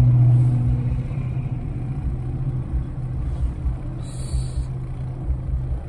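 Car engine droning inside the cabin, a steady low hum, with a short breathy hiss about four seconds in as a mouthful of smoke is blown out.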